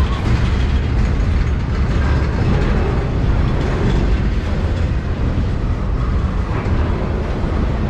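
Double-stack intermodal freight cars rolling past fast: a steady low rumble of steel wheels on the rails.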